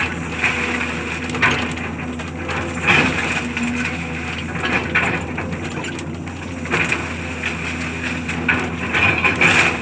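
Demolition work: a heavy machine's engine runs steadily under irregular crunching and cracking of debris being broken up, with sharper cracks at intervals.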